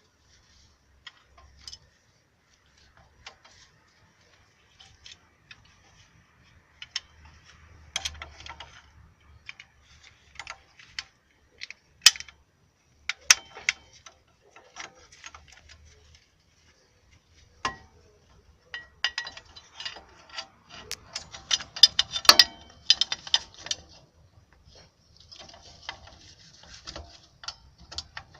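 Metal clicks and knocks from a Chery Bonus 3's rear drum brake with the drum off: the brake shoes, springs and automatic self-adjuster are being worked by hand, and the adjuster ratchets. A few sharp knocks stand out, followed by a dense run of rapid clicking about two-thirds of the way in.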